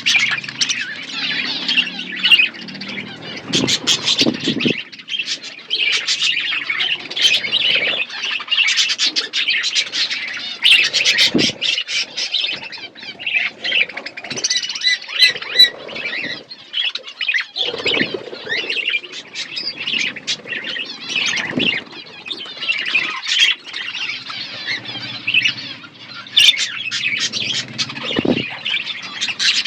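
Several pet budgerigars chattering and squawking without a break, with a few short, lower thumps now and then.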